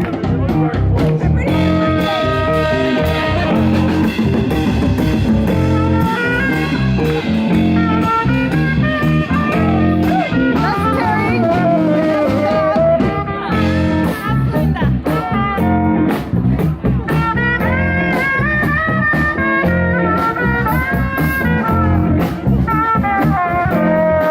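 A blues band playing live: a lead guitar line with bent, sliding notes over bass and drums.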